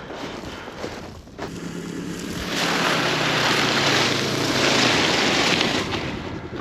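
A vehicle's engine running with a steady low hum, under a loud rush of wind on the microphone that builds about two and a half seconds in and eases near the end.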